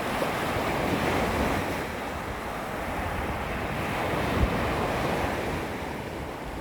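Small waves lapping on a beach shoreline, the wash swelling and easing every few seconds, with wind rumbling on the microphone and a brief low bump of wind about two thirds of the way through.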